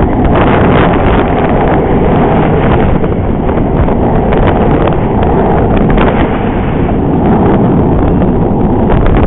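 Loud, steady wind buffeting the camera's microphone, a rough low rumble throughout.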